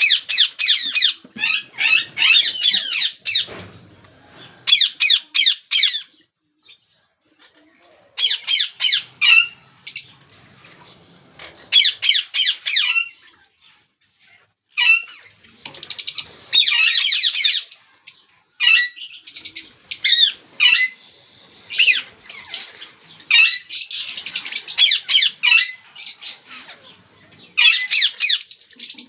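Ringneck parakeet chicks giving repeated bursts of harsh, high-pitched begging squawks, with short pauses between bursts.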